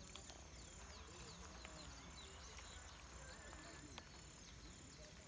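Faint outdoor ambience: many short, quiet falling chirps and a faint high steady buzz, with faint distant voices.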